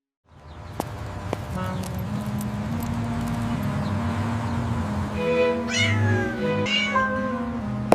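A cat meowing twice, a little past halfway through, over background music that starts about a third of a second in.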